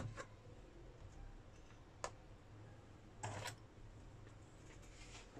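A few light clicks and a short rustle about three seconds in, over a faint steady low hum: small handling noises on a work surface.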